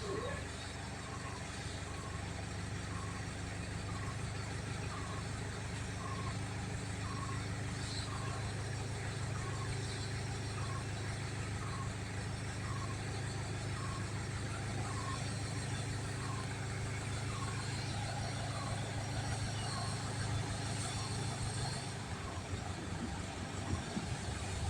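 A steady, low engine-like hum with a short, high beep repeating about once a second, like a vehicle's reversing alarm. The hum drops away near the end.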